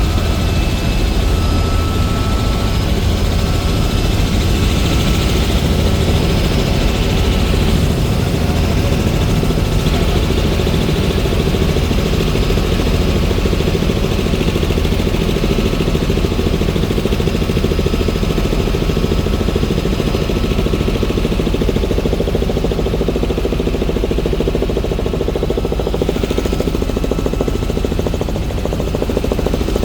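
Helicopter rotor and engine running loudly and steadily, a deep rotor throb under a thin steady whine.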